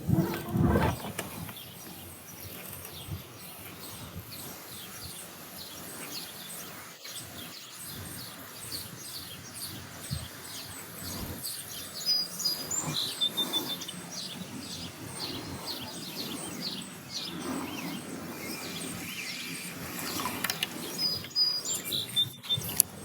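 Several birds chirping and singing over a steady faint background hiss. A distinct call with clear whistled notes comes about twelve seconds in and again near the end.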